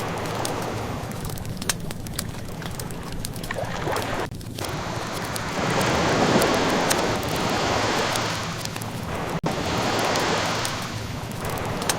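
Ocean waves washing in and out in slow surges, one swelling about halfway through and another near the end, with the scattered sharp crackles and pops of a wood fire over them.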